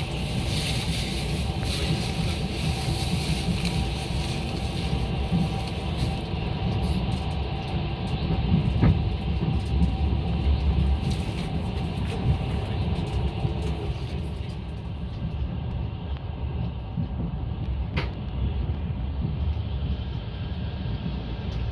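Russian long-distance passenger train running: a steady low rumble with a hiss on top and a couple of sharp clicks. The hiss eases a little in the later part.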